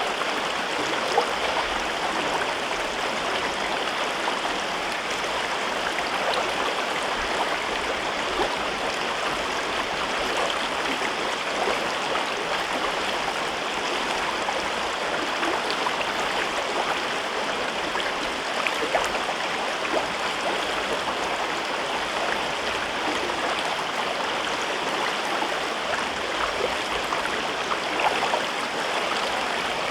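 River water flowing over rocks in a gorge: a steady rushing and babbling, with small splashes and gurgles scattered through it.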